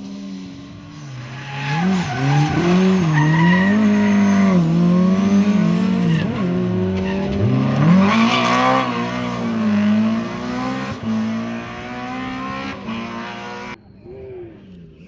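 Rally car engine revving up and down repeatedly as the car slides, with tyre squeal; the sound cuts off abruptly near the end.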